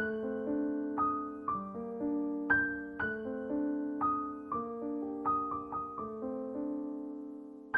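Background piano music: a gentle melody of struck notes and chords, each ringing and fading.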